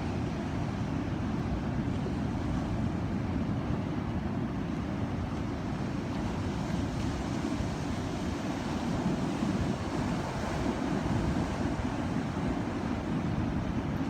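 Ocean surf: waves washing in as a steady, continuous rush, heaviest in the low end, with no separate breaks standing out.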